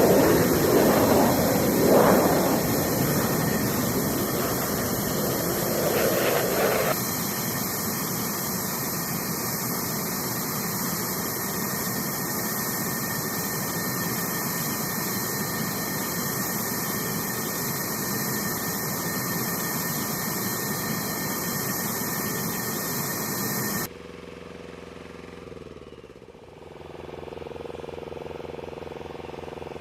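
Jet engine noise: a steady rush with a thin high whine, louder and rougher for the first seven seconds. About 24 s in it cuts abruptly to a quieter, steady machine hum, with a falling tone near 26 s.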